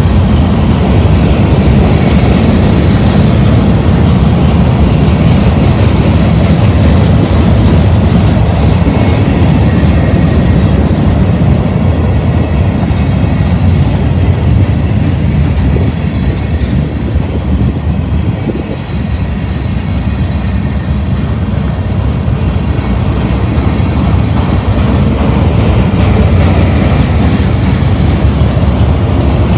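Freight cars of a manifest train (autoracks, flatcars and boxcars) rolling past close by: a loud, steady rumble of steel wheels on the rails that dips briefly about two-thirds through.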